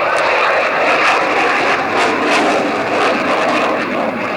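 Loud, steady jet engine noise from an aircraft in a display pass.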